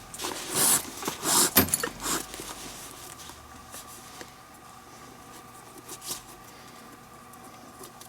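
Leather lace being pulled and worked through a Rawlings Gamer baseball glove: about two seconds of scraping, rustling friction with one sharp click, then quieter scattered taps and rubbing as the glove is handled.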